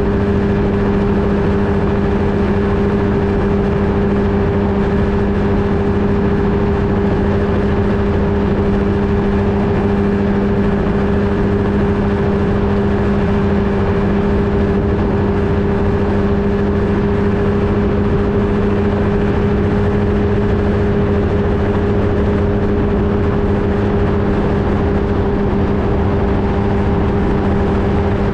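Flightstar II ultralight's engine and propeller running at a steady speed, a constant drone whose pitch does not change.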